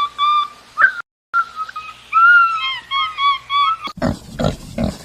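Waterfowl giving a run of short pitched honking calls, about four a second, broken by a brief gap about a second in. Pig grunting takes over near the end.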